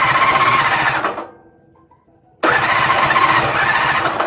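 1952 Ford 8N tractor's four-cylinder engine being cranked over by the starter in two bursts, with a short pause between them. The engine turns but does not fire: it has spark, but the owner finds it is not getting fuel.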